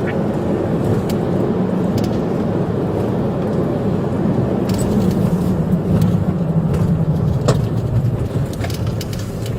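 A police car's engine and tyre noise heard from inside the cabin while it drives fast in pursuit, with the engine note easing slightly lower in the second half. A few light clicks sound over it.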